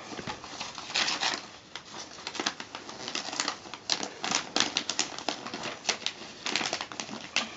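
Christmas wrapping paper rustling and crinkling in irregular crackles and short rustles as it is folded around the cat.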